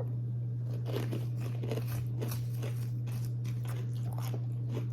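A person biting and chewing crunchy tortilla chips close to the microphone: a string of irregular crunches over a steady low hum.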